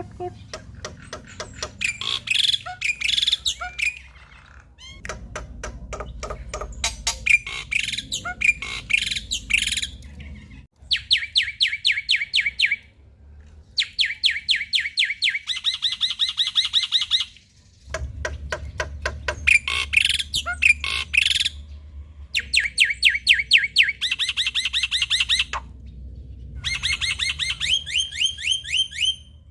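Male black-winged myna (jalak putih) singing a loud, varied song. Phrases of mixed chatter and whistles alternate with rapid runs of evenly repeated notes, with short pauses between phrases.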